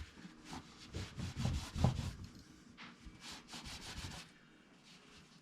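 Rubbing and scraping of small suspension pins being cleaned by hand: a run of irregular strokes that stops about four seconds in.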